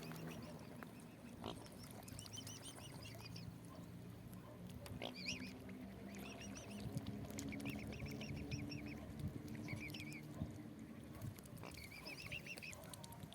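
Waterfowl calling faintly in short, repeated wavering calls, over a low steady hum.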